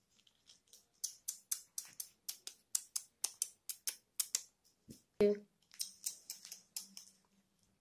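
Crunchy crackers being chewed close to the microphone: a fast run of sharp crunches, about four or five a second, broken by a single thump about five seconds in.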